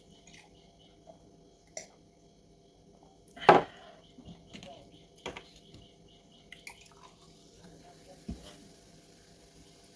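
Close-miked eating sounds: wet mouth noises and small clicks spaced a second or two apart, with one much louder wet mouth sound about three and a half seconds in.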